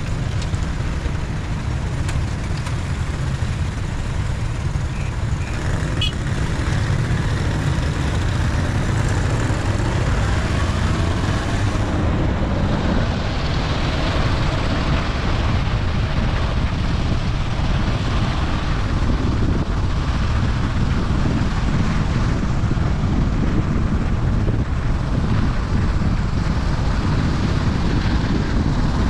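Steady rumble and hiss of a car driving along a road, getting a little brighter about halfway through.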